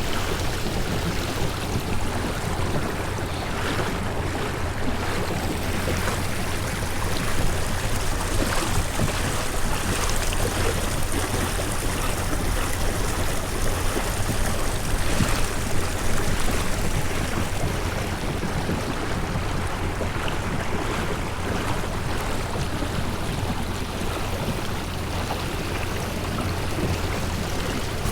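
Kayak under way across the lake: a steady rush of water along the hull, mixed with wind on the microphone.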